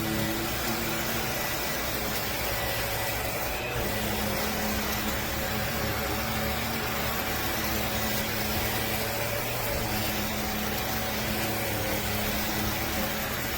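Upright vacuum cleaner's motor running steadily: an even whir with a faint steady hum.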